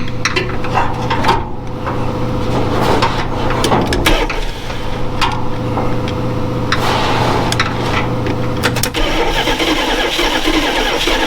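Truck engine being cranked over on its starter, turning over well with a slightly uneven rhythm, a little gallop. A steady starter whine runs until about nine seconds in.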